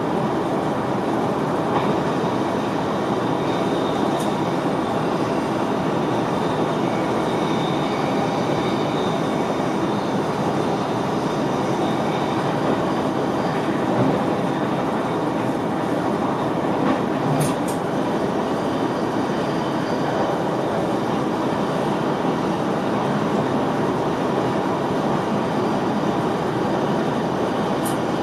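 Running noise heard inside the driver's cab of an NS VIRM double-deck electric train travelling along the track: a steady rumble of wheels on rail, with faint high tones and a few brief clicks.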